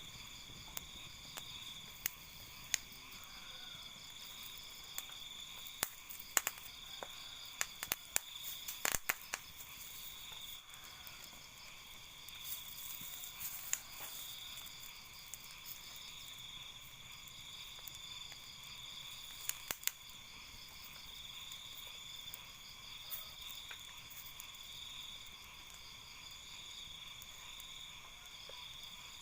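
Night insects such as crickets calling steadily at several high pitches, with scattered sharp clicks and snaps, a cluster of them between about six and ten seconds in.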